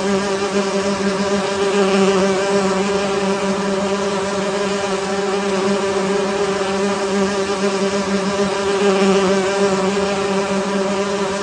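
Beehive humming: the massed buzz of many bees as one steady, low, buzzy drone that holds an even pitch throughout.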